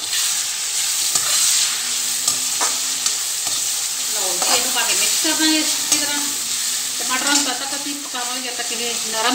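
Chopped onions and tomatoes sizzling in hot oil in a wok, stirred and scraped with a spatula, with a few sharp clicks of the spatula against the pan.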